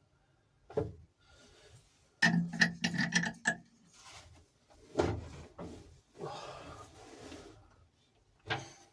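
Hand tools working the engine mounting bolts in a narrowboat's engine bay: scattered metal knocks, a run of quick clicks about two seconds in, and a stretch of scraping later on.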